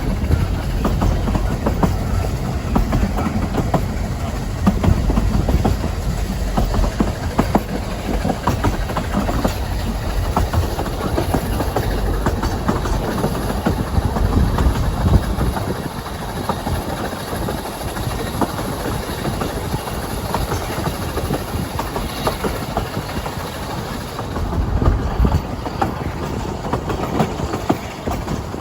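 Narrow-gauge train running on the line, its wheels rattling and clicking over the rails with a heavy low rumble that eases about halfway through.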